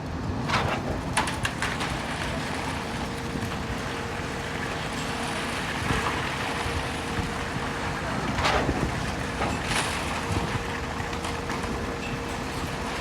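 Concrete pump truck's engine running steadily with a faint steady hum, broken by a few sharp knocks.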